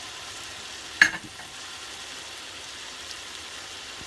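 Uncooked rice sizzling as it toasts in hot oil in a pan, a steady frying hiss. A single sharp knock about a second in, and the sound cuts off suddenly at the end.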